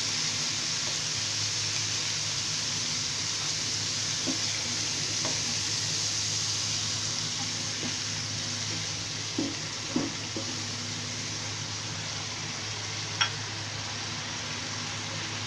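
Onion and spice masala (ginger and garlic paste, turmeric, chilli, cumin and coriander powder) sizzling steadily in oil in a pan as it is cooked down with a little water. There are a few brief clicks of the stirring spoon against the pan.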